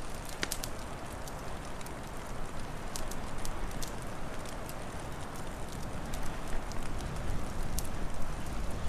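Wood fire crackling, with scattered sharp pops over a steady hiss; a low wind rumble grows louder near the end.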